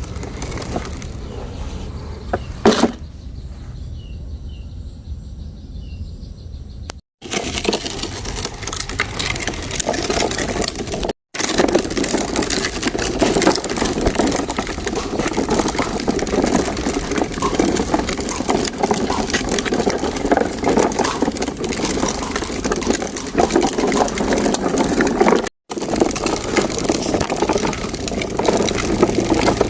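Plastic toy dump truck rolling over sandy soil, its wheels giving a steady gritty crunching and rattling, with a sharp knock about three seconds in.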